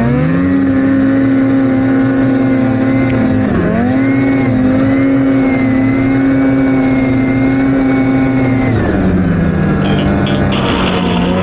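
Turbocharged vehicle engine running at a steady speed, with a high, slightly wavering turbo whistle over the engine note. The engine dips briefly about three and a half seconds in, then drops to a lower steady speed near nine seconds.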